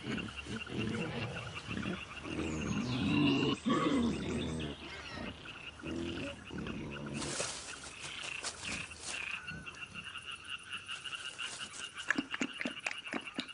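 Night wildlife sounds at a waterhole: a steady, high insect trill, with deep, repeated animal calls through the first half, loudest a few seconds in. Quick clicks come near the end.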